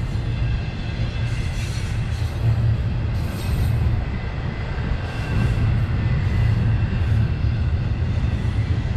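Freight train rolling past: a steady low rumble of wheels on rail, with lighter metallic hiss and faint ringing tones that swell and fade every second or two.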